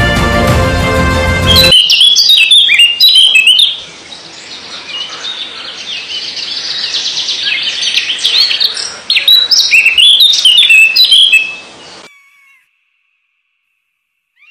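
Background music cuts off, then birds chirp in quick succession: many short, high calls sliding up and down, loud at first, softer for a few seconds, then loud again. The calls stop abruptly about twelve seconds in.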